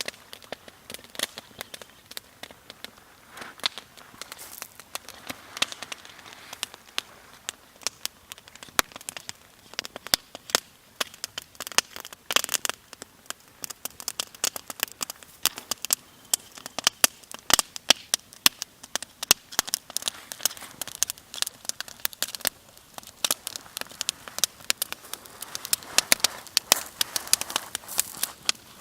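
Campfire crackling: wood burning with a steady run of irregular sharp pops and snaps.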